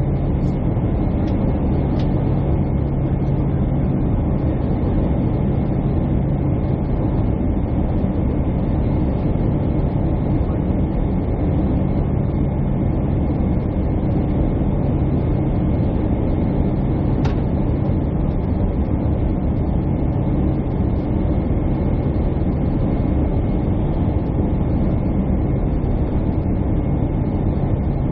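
Airliner cabin noise: the steady hum and rush of jet engines and airflow heard from a passenger seat, with a low droning tone underneath and a couple of faint ticks.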